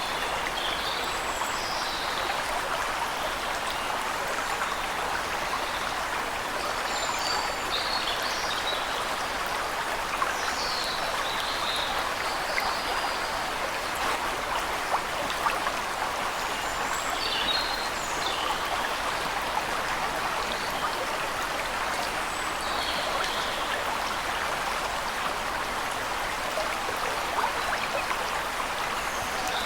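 Steady rush of a waterfall, an even wash of falling water, with small birds chirping in short phrases every few seconds above it.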